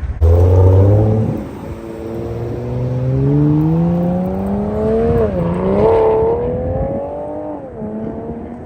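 Car engine and exhaust accelerating hard: a loud low burst right at the start, then the pitch climbs steadily, dips sharply about five seconds in, climbs again, and drops and levels off near the end.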